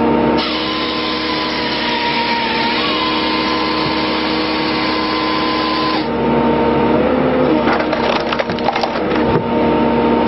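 Firewood processing machinery running with a steady machine whine while logs are split, the wood cracking and splintering. A run of sharp cracks comes near the end. The sound changes abruptly twice, as at edits between takes.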